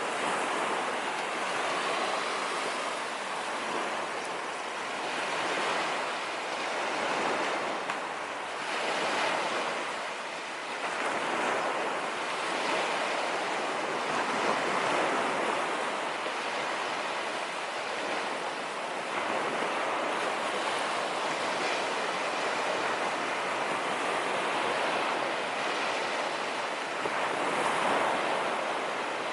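Sea waves breaking and washing up a sandy beach: a continuous rush of surf that swells and eases every few seconds.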